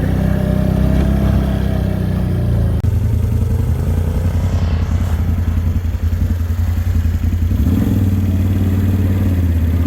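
Can-Am Outlander 850 ATV's V-twin engine running under load while pushing a plow through deep drifted snow, its note changing about three seconds in and again near the end.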